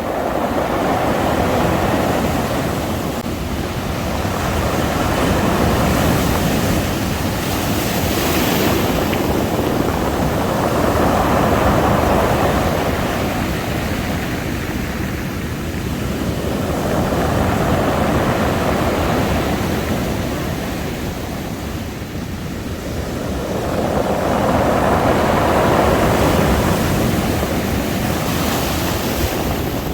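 Sea waves breaking and washing up a beach, the surf swelling and easing every several seconds over a steady low rumble.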